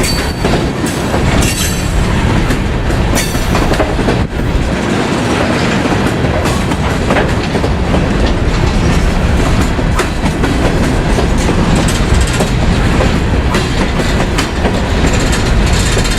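Freight train cars rolling past close by, their wheels clattering over the rail joints in a steady run of clicks and knocks.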